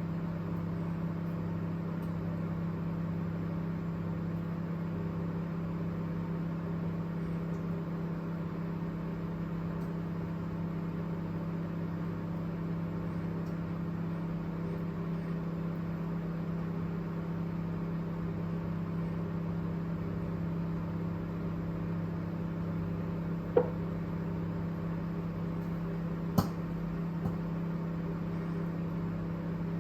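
Microwave oven running with a steady low hum. Near the end come two sharp clicks and a fainter third, the intermittent abnormal noise the microwave makes.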